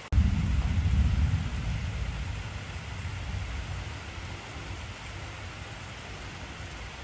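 Steady heavy rain with a sudden deep rumble of thunder that breaks in right at the start, loudest for the first second or so, then dies away over several seconds.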